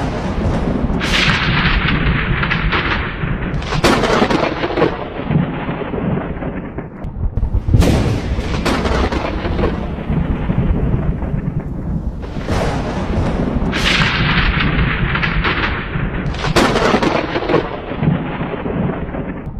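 Thunderstorm: a continuous low thunder rumble over steady rain, broken by about six sudden cracks of thunder that each roll away over a second or two.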